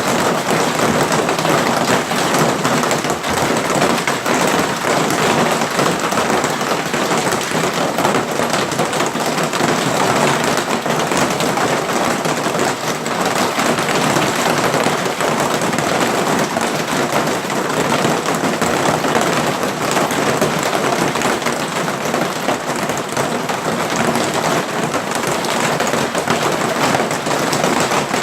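Hailstones pelting down in a steady, dense clatter of countless small impacts.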